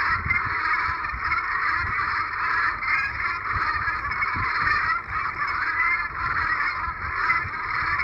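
A flock of geese honking, many calls overlapping in an unbroken chorus.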